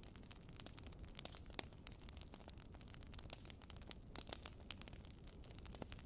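Fire in a fireplace crackling, with many sharp, irregular pops over a faint low rumble.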